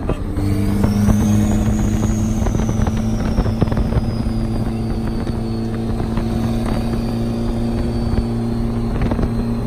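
Car engine running at low speed as cars roll past, a steady low drone. Over it a thin high whine rises over the first second or two, then slowly falls away.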